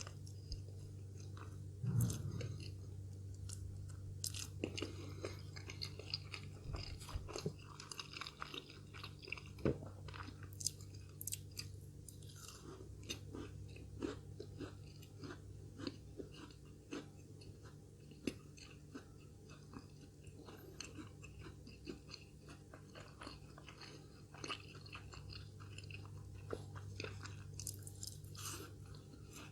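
A person chewing and crunching a fried pastry chicken puff close to the microphone: many small, irregular crackles and wet chewing clicks over a low steady hum.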